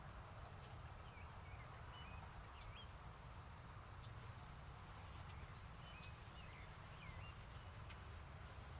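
Faint songbird calls: a short, very high thin note repeated about every one and a half to two seconds, with brief curling chirps from another bird in between, over a low steady background rumble.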